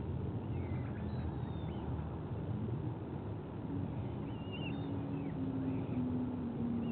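Outdoor ambience of a steady low rumble, with short high bird chirps and whistles scattered through it and a low drone that steps slowly down in pitch over the last few seconds.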